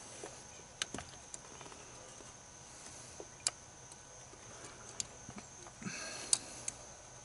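Faint handling clicks and light knocks of plastic and metal engine parts being refitted by hand, a few sharp clicks spread through, the loudest about six seconds in, after a short rustle of handling.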